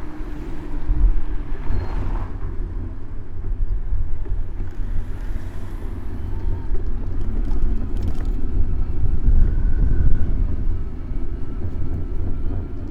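Road traffic in a busy city street, heard from a moving bicycle, under a heavy, fluctuating low rumble of wind on the microphone of a bike-mounted camera.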